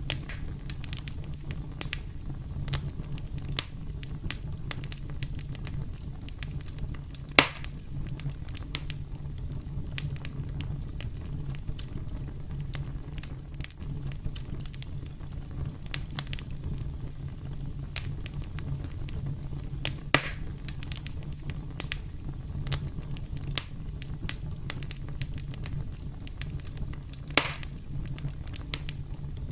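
Campfire burning with a steady low rumble and continual small crackles, broken by three louder pops, the first about seven seconds in the loudest.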